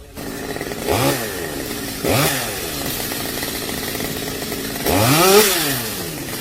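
Two-stroke chainsaw engine running, revved up and let back down three times, the last and loudest rev about five seconds in.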